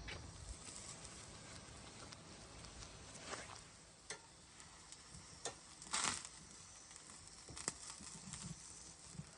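Faint scattered clicks and crackles over a light sizzle, typical of food grilling over a charcoal barbecue, with the loudest tap about six seconds in.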